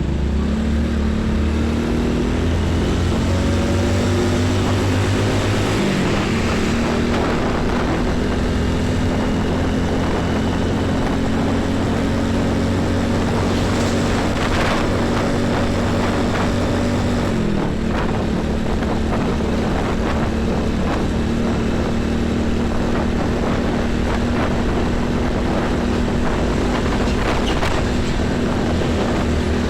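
Heavy diesel truck engines running on a busy highway, a steady low drone over tyre and road noise. The engine pitch drops twice, about six seconds in and again past the middle.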